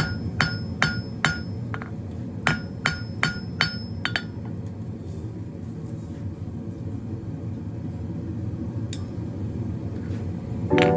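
Hand hammer striking steel round stock on an anvil: two short runs of ringing blows, about two or three a second, in the first four seconds. Then only a steady low hum remains, with music coming in at the very end.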